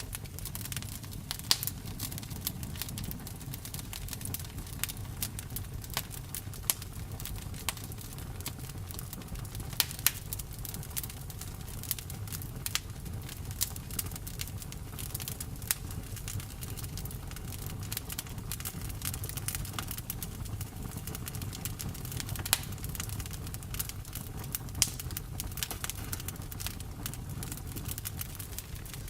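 Campfire burning: a steady low rumble under many irregular sharp crackles and pops, with a few louder snaps scattered through.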